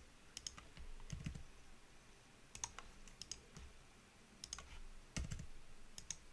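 Faint, scattered computer keyboard and mouse clicks, a few at a time with pauses between, with a couple of soft low thumps about a second in and about five seconds in.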